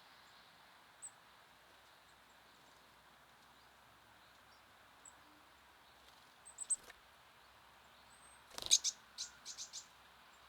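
Small songbirds giving short, high chip calls: a few faint single chips, then a quick run of louder chips near the end, one with a sharp click. A steady faint outdoor hiss lies underneath.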